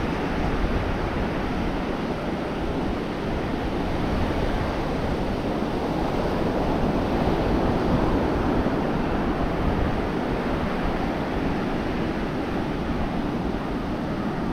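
Ocean surf breaking and washing up the beach, with wind rumbling on the microphone. The surf swells to its loudest about halfway through, then eases.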